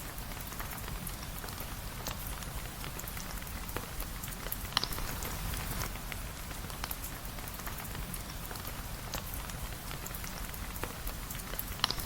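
Steady rain falling, an even patter with a low rumble underneath and scattered sharp ticks of drops, two louder ticks about five seconds in and near the end.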